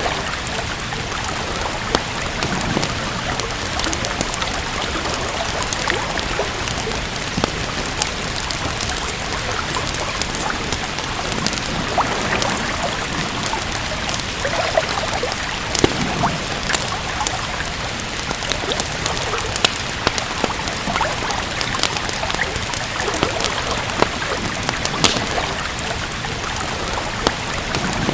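Steady rain hissing, with a wood fire crackling: scattered short pops over the rain.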